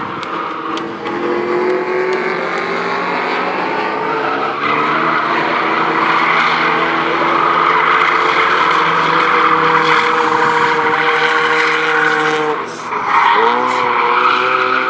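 Small hatchback racing car's engine running hard around the circuit, its pitch climbing steadily. Near the end it drops briefly in pitch and level, then climbs again.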